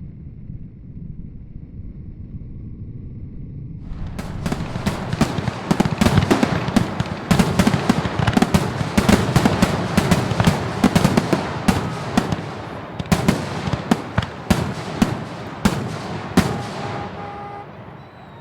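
Fireworks going off: after a low rumble, a dense run of sharp bangs and crackles starts about four seconds in and thins out near the end.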